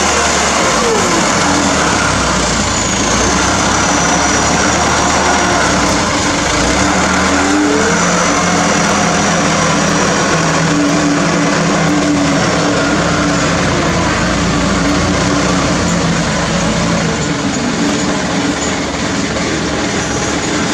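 Hino diesel truck carrying a load of cassava, its engine running loudly and steadily, with engine tones that rise and fall in pitch now and then.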